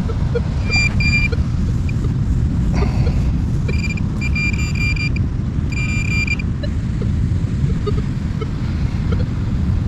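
Minelab Manticore metal detector sounding its high-pitched target tone in four short beeps as the coil sweeps over a buried gold wedding band. A steady low rumble runs underneath.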